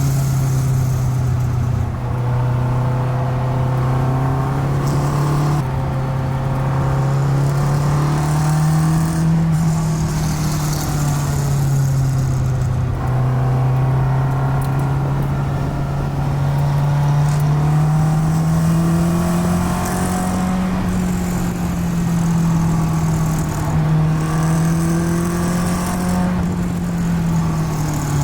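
1965 Alfa Romeo Giulia Super's twin-cam four-cylinder engine heard from inside the cabin, running steadily under way, its pitch rising and falling gently a few times and dropping off near the end.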